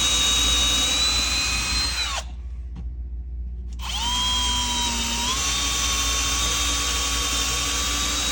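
Electric drill boring a hole into a wooden wall stud, its motor whining steadily. It stops about two seconds in, starts again about a second and a half later, sags in pitch as it bites, then runs on.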